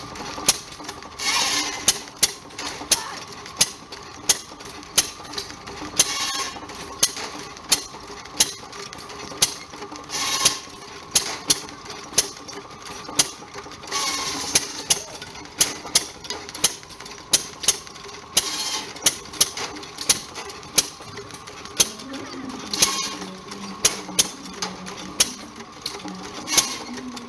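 1920 5hp Monitor hit-and-miss gas engine running, with sharp bangs repeating about once or twice a second and a longer rasping burst roughly every four seconds.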